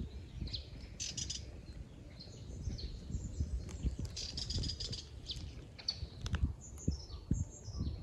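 Several small wild birds chirping and trilling in short high notes scattered throughout, with a denser trill about four seconds in. A steady low rumble runs underneath.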